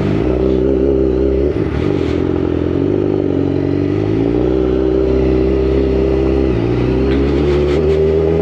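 Motorcycle engine under way, pulling and accelerating, its pitch rising and then dropping at gear changes, about one and a half seconds in and again after six and a half seconds.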